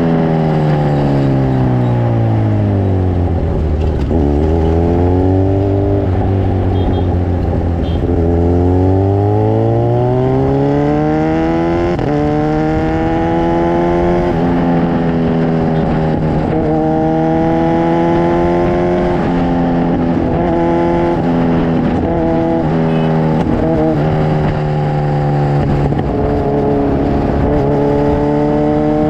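Kawasaki Ninja 1000SX inline-four engine running through an Akrapovic full-system exhaust. The engine note falls over the first few seconds to a low, steady drone, rises again about ten seconds in, and then holds a steady, higher note with small wavers.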